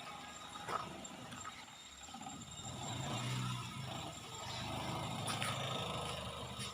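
Car engine running at low speed as the car reverses into a parking space, a low steady hum that grows a little stronger about two and a half seconds in, with a few faint clicks.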